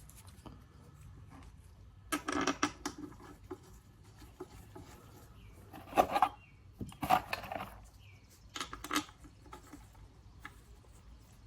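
Metal parts and hand tools clinking and rattling as they are handled during small-engine assembly, in four short bursts of clatter with pauses between.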